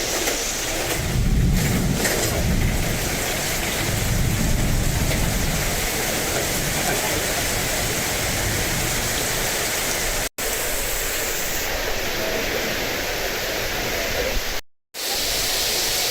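Heavy downpour, rain hissing steadily, with low rumbling swells in the first few seconds. The sound cuts out briefly twice near the end.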